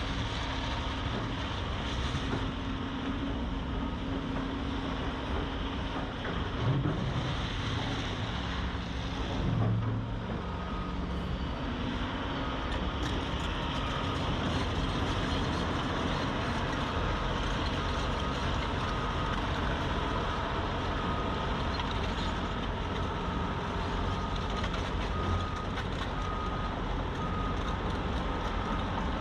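Heavy construction machinery running at a work site: a steady diesel engine rumble, with a reversing alarm beeping about once a second from about a third of the way in.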